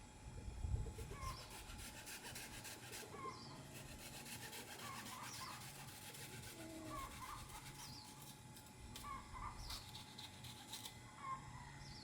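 Chickens clucking softly, short calls every second or so with some higher chirps among them, over scratchy rustling. A low thump just under a second in is the loudest sound.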